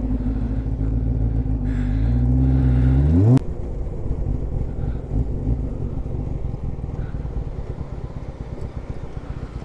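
Motorcycle engine pulling away, its note rising as it accelerates, then cutting off abruptly about three and a half seconds in. A rough rumble of wind and engine follows and slowly fades.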